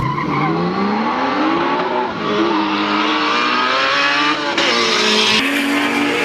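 Drag-racing car accelerating hard down the strip: its engine revs climb, fall back at a gear change about two seconds in, climb again and drop at another shift near the end.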